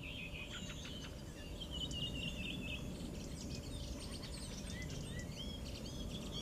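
Several small birds chirping and singing in quick, overlapping calls and trills, over a steady low outdoor background rumble.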